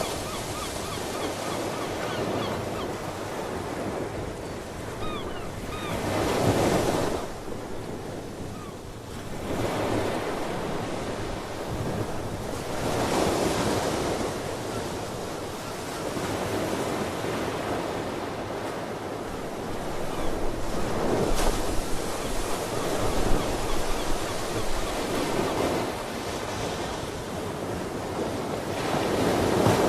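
Ocean waves breaking and washing ashore, swelling and easing every few seconds. A few faint seabird calls come through in the first several seconds.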